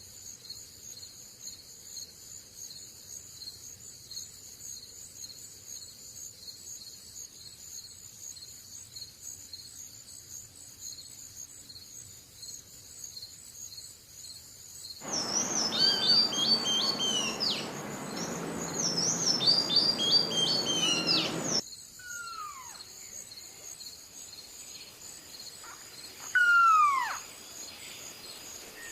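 Insects chirring in a steady, high, evenly pulsing trill, with birds singing. About halfway through, a rushing noise cuts in with a burst of quick falling whistled bird notes, then stops abruptly some six seconds later. Near the end comes a loud downward-swooping bird call.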